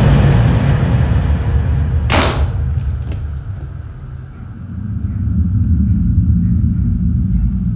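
A deep, continuous rumble with a single loud whoosh about two seconds in; the rumble sinks around the middle and swells back up.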